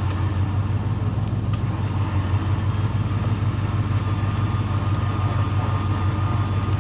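Off-road 4x4's engine running steadily at a low, even drone.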